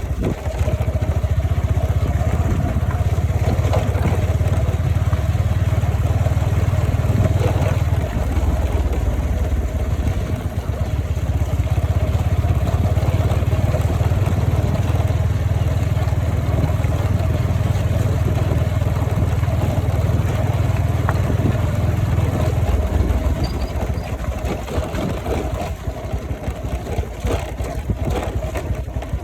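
A vehicle on the move: its engine running steadily under a heavy low rumble of wind on the microphone. The rumble eases about 23 seconds in.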